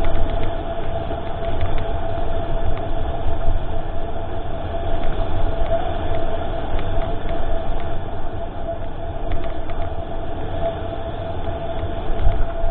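Mountain bike riding heard from a GoPro camera: wind buffeting the microphone as a heavy rumble, with tyre and drivetrain noise, a steady whine, and a few short rattling clicks.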